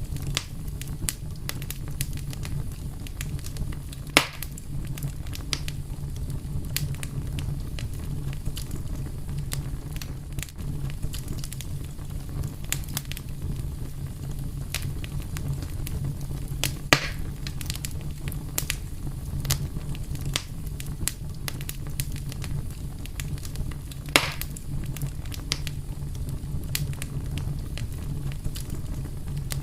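Wood fire crackling steadily over a low rumble, with many small ticks and three louder pops spread through.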